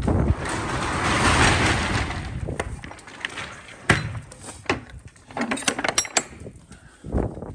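Metal rattling and clanking from handling the box truck's cargo gear: a rattle lasting about two seconds, a single sharp clank about four seconds in, then a few lighter clicks.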